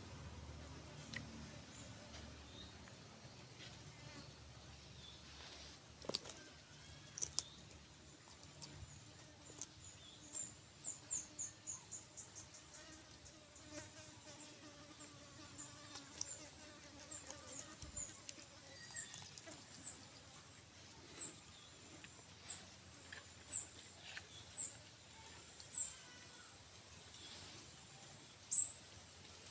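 A steady, high-pitched insect trill, cricket-like, with a scatter of short, high chirps. The chirps come in a quick run midway and then about one a second near the end.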